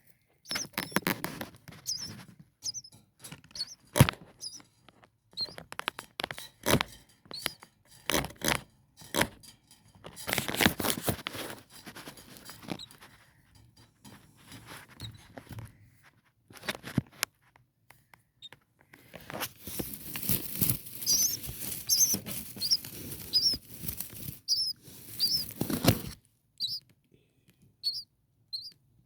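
Four-day-old starling nestlings peeping: many short, thin, high squeaks, thickest in the second half, over rustling and clicking as the chicks shift in the nest, with two longer bouts of rustling.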